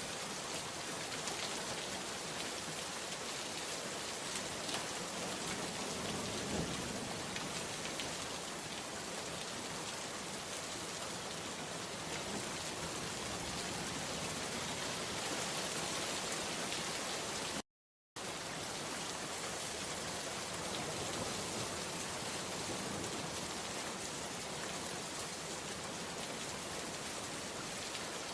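Steady, dense rain falling and pattering on surfaces, broken once by a split-second gap of total silence about two-thirds of the way through.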